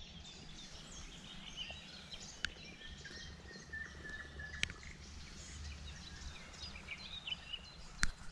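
Songbirds singing around the riverbank, many short chirps and calls overlapping, with one held whistling note from about two to five seconds in. Three sharp clicks stand out, about two and a half seconds in, near the middle and near the end.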